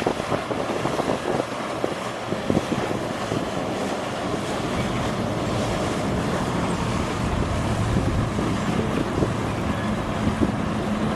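Wind buffeting the microphone with a rough, steady rumble, joined by a low steady hum from about two-thirds of the way in.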